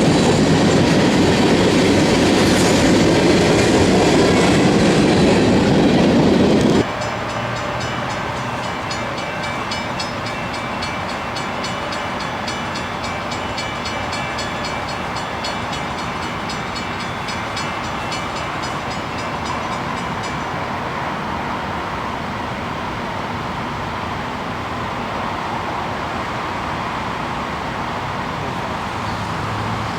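Freight train rolling past, the loud rumble and clatter of its cars. About seven seconds in, the sound cuts abruptly to a quieter train sound with steady high-pitched tones that fade out later.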